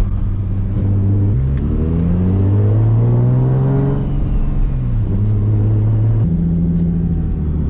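Turbocharged Nissan 350Z's VQ35HR V6 engine running at low revs, then revving up about a second and a half in, climbing for a couple of seconds and dropping back, with another change in engine tone near the end.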